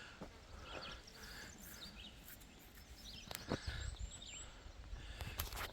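Faint scattered bird chirps over quiet outdoor background noise, with a brief click about three and a half seconds in.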